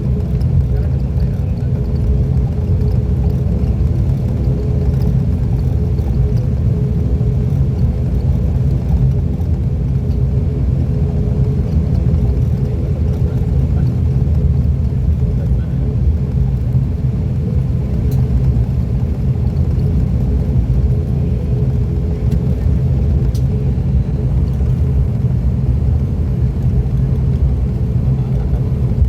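Twin turboprop engines and propellers of an ATR 42-600 heard inside the cabin, a steady loud drone with a constant propeller hum that neither rises nor falls.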